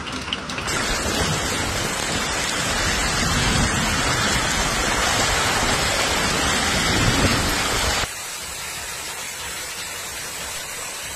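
Heavy storm precipitation pelting down on surfaces in a dense, steady rush. About eight seconds in it cuts abruptly to a quieter, steady rush of the same kind.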